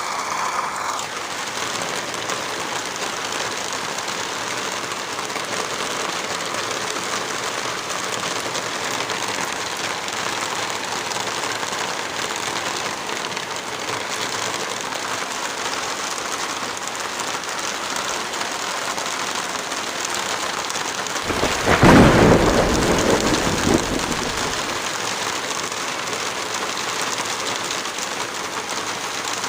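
Heavy rain falling steadily, with a low roll of thunder about three quarters of the way through that lasts a few seconds and is the loudest sound.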